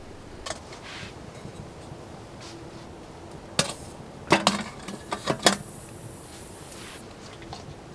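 A sharp knock, then a quick cluster of clinks and clatters about a second long, like hard objects being handled and set down, followed by a short hiss.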